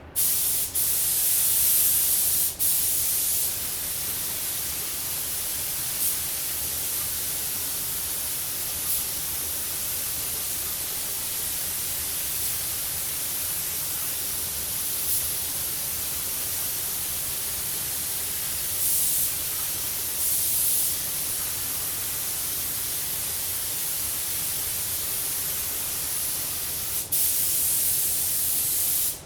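Compressed-air paint spray gun hissing steadily as a coat of paint is sprayed onto a car body panel, with a few brief louder swells. It starts and cuts off abruptly as the trigger is pulled and released.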